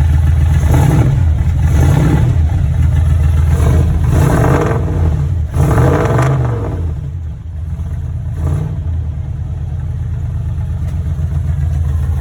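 Ford 390 FE V8 in an F250, still cold after a 21°F start, blipped up in revs about five times and dropping back, then settling to a steady idle for the last few seconds.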